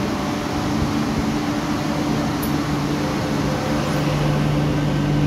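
MTR Q-Train electric metro car running between stations, heard from inside the car: a steady hum of the traction equipment, with a few held tones and the rumbling noise of the train in motion. A higher tone joins about halfway through.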